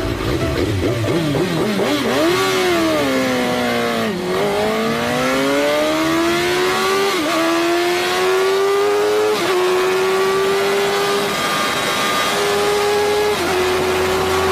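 Superbike engine revving in quick blips, then dropping in pitch as it pulls away and accelerating hard, the pitch climbing through the gears with a brief dip at each of three upshifts before levelling off near the end.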